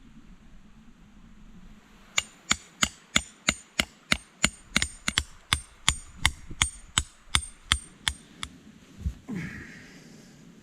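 A hand tool striking wood about twenty times in a quick, even rhythm, roughly three blows a second, each a sharp crack with a brief ringing. The blows start about two seconds in and stop a couple of seconds before the end, followed by a short sound that falls in pitch.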